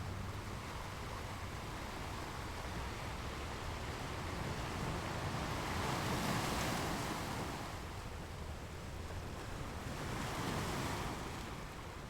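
Ocean surf: a steady wash of waves, swelling louder twice as waves break.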